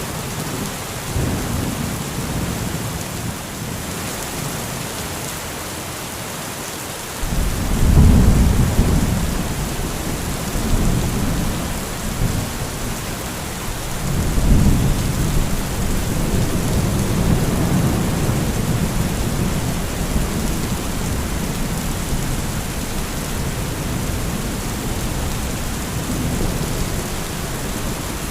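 Heavy rain falling steadily while thunder rolls: a deep rumble breaks in about seven seconds in, and a second rumble swells about fourteen seconds in, both rolling on for several seconds over the rain.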